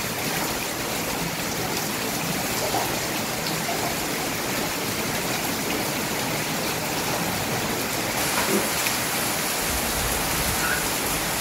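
Rain falling steadily, an even hiss with no breaks. A low rumble joins it near the end.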